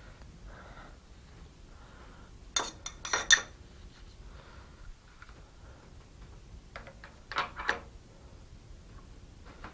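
Metal parts or tools being handled and set down on a shop bench: two short bursts of sharp metallic clinks and knocks, about two and a half seconds in and again near seven seconds, over faint shop background.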